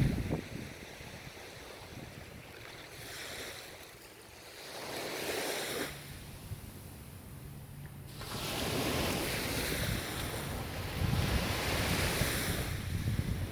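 Ocean waves breaking and washing up the shore, the surf swelling and falling away every few seconds, with a quieter lull between waves in the middle.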